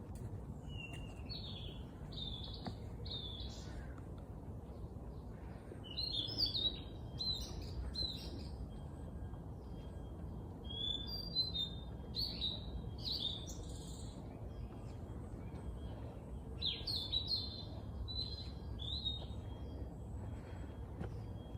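Songbirds singing in short bursts of quick chirps and sweeping notes, coming in several bouts a few seconds apart, over a steady low background rumble.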